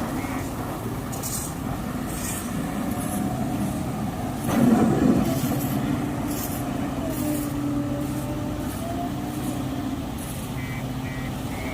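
Diesel engine of a backhoe loader running under varying load, its pitch shifting, with a louder surge about four and a half seconds in. A short, evenly spaced beeping starts near the end.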